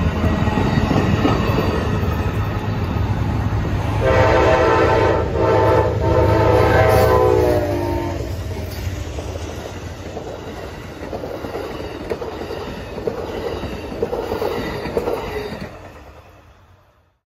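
Amtrak passenger train passing, with a low rumble and wheels clattering over the rails. About four seconds in, a multi-tone train horn sounds twice: a short blast, then a longer one of about two and a half seconds. The rumble then fades as the train draws away, and the sound dies out near the end.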